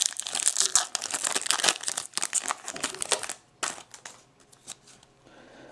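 Plastic baseball card packaging crinkling and tearing as it is opened. The crinkling stops about three seconds in, leaving a few light clicks.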